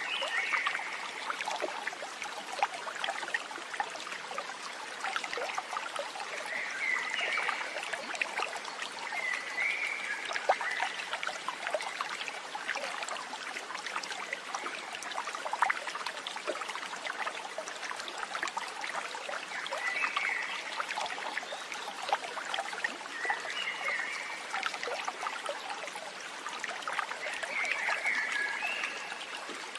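Steady trickling and babbling of a stream's running water. Short chirping calls come in every few seconds.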